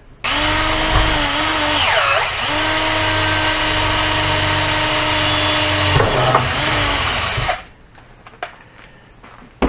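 Electric drill running for about seven seconds, boring a hole through a piece of rubber hose. Its steady whine dips in pitch about two seconds in and again near the end before it stops.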